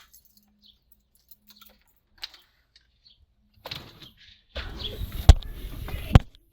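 Front door being opened: a handling rustle that builds about halfway through, with two sharp clacks close to a second apart near the end.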